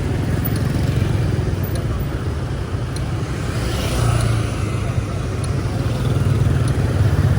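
Street traffic: a steady low rumble of passing vehicle engines that grows a little louder near the end.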